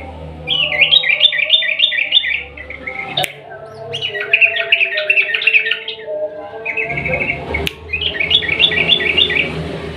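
Yellow-vented bulbul (trucukan) singing its long rapid song: three runs of quick repeated notes, about five a second, with short gaps between them. Two sharp clicks sound among the runs.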